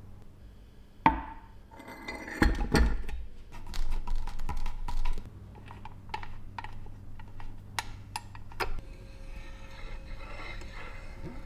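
Small hard objects clinking and knocking as they are handled: a sharp knock about a second in, a louder run of clattering from about two and a half to five seconds, then scattered light clicks.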